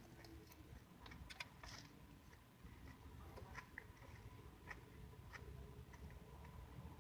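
Faint chewing: soft, irregular mouth clicks and smacks from someone eating.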